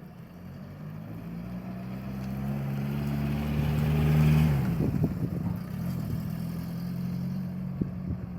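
A vehicle engine running at a steady speed, growing louder as it approaches and passing closest about four and a half seconds in. Its note drops in pitch as it passes, and it then runs on more quietly.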